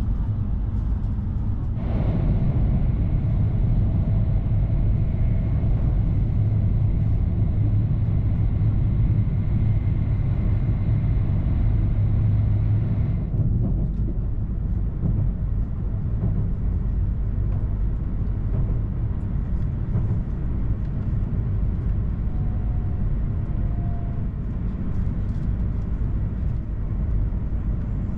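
E2-series Shinkansen running at speed, a steady low rumble of the train in motion. From about two seconds in the sound grows louder and hissier, then drops back suddenly after about eleven seconds.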